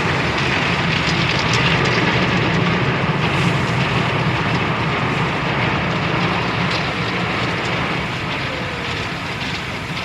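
Automatic drive-through car wash running over the car: a loud, steady rushing noise of its spray and machinery, a little louder in the first few seconds and easing slightly near the end.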